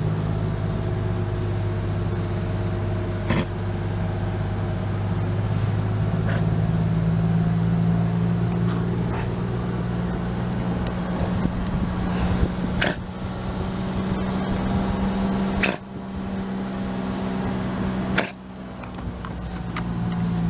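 An engine running steadily, its hum shifting slightly in pitch about halfway through, with a few scattered knocks and clicks.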